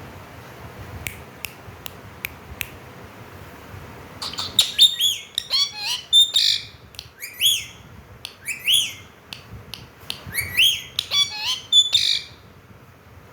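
Ringneck parakeet giving a run of loud, short calls that swoop up and down in pitch, in clusters, starting about four seconds in. A few sharp clicks come before the calls.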